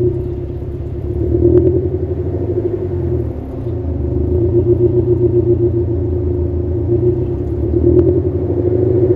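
Subaru Levorg's turbocharged 1.8-litre flat-four idling through an STI performance exhaust: a steady low boxer rumble that swells briefly twice, about a second and a half in and near the end.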